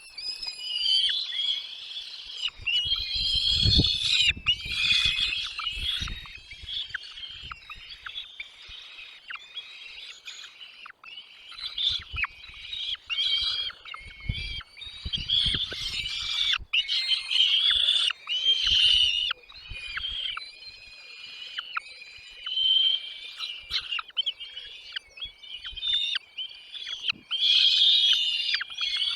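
Chicks in a nest chirping continuously, many rapid high calls overlapping, the calls of nestlings begging for food. Low rumbling bumps come twice, near the fourth and fifteenth seconds.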